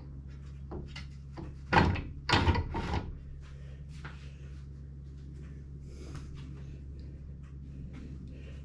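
Table saw rip fence slid along its rail, its underside dragging on the table top because the fence sits too low. Two short sliding scrapes come about two seconds in, over a steady low hum.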